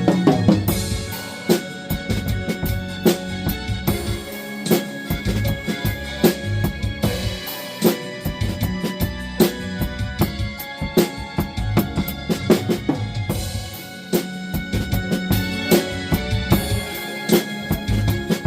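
Drum kit played along with a blues backing track: bass drum and snare strokes over steady held chords.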